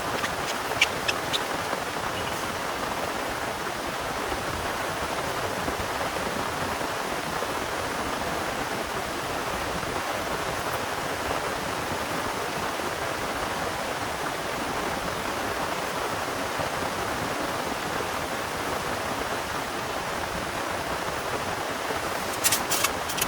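Heavy rain falling in a steady downpour, with a few sharp ticks about a second in and again near the end.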